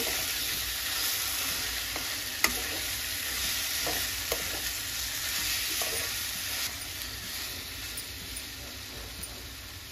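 Sliced ivy gourd coated in onion-chilli paste sizzling in oil in a kadai on low heat while a spatula stirs it, with a few short scrapes and knocks of the spatula against the pan. The sizzle grows quieter over the last few seconds.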